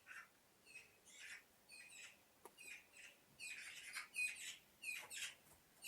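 Birds chirping: short, high calls repeating every half second to a second, coming thicker and louder in the middle stretch.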